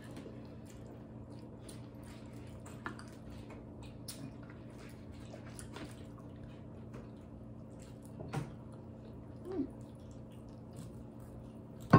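Quiet chewing and eating: faint wet mouth sounds and small scattered clicks while steak is eaten, over a steady low hum.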